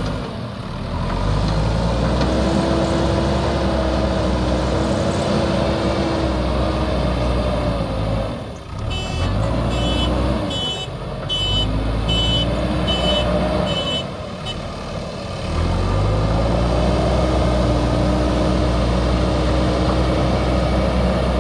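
JCB backhoe loader's diesel engine working under load, its revs rising and falling, with short drops about eight and fourteen seconds in. A reversing alarm beeps steadily for a few seconds in the middle.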